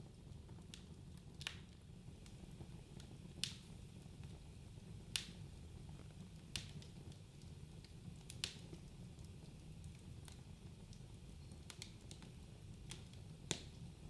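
Wood fire burning in a fireplace: a low steady rumble of flames with sharp crackles and pops every second or two, a few of them louder.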